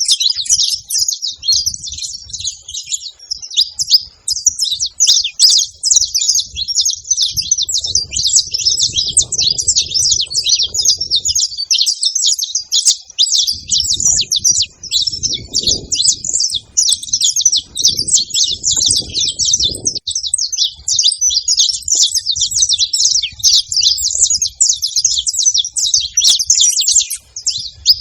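Saffron finches chirping and chattering in a dense, continuous stream of quick high notes.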